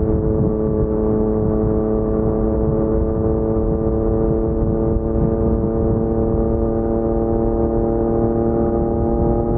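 Yamaha MT-09's crossplane three-cylinder engine through an Akrapovic carbon full-system exhaust, running at steady revs with an even, slowly drifting note.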